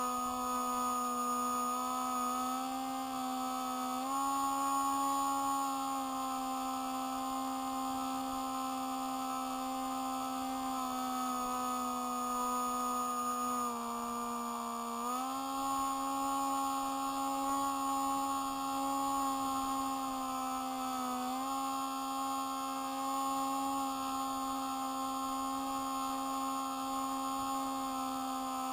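Electric motor and propeller of a Spy Hawk RC plane, a steady buzzing drone whose pitch shifts up and down a few times as the throttle or airspeed changes.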